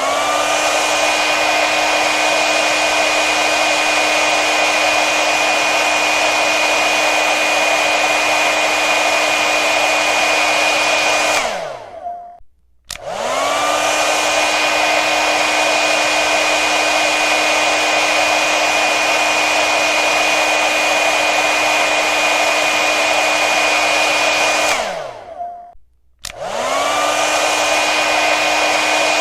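Hair dryer blowing with a steady rush of air and a motor whine. It switches off twice, near the middle and near the end, its whine gliding down into a second of silence each time. It then switches back on, with the whine rising as the motor spins up.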